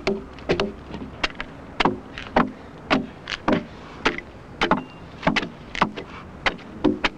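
Repeated sharp axe blows chopping into oak timber, an uneven run of about two to three strokes a second.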